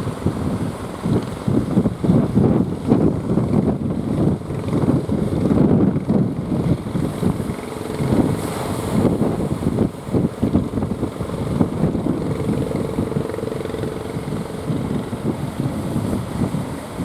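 Strong wind buffeting the microphone in gusts, with a faint steady motor hum from a fishing boat's engine coming and going.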